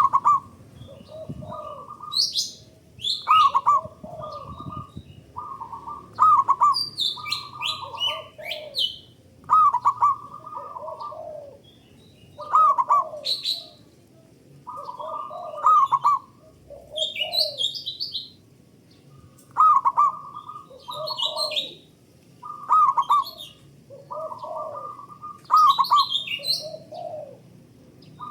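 Zebra doves (perkutut) cooing, their phrases of short, bubbling coo notes repeating every two to three seconds and seemingly answering each other. Smaller birds chirp higher up between the phrases.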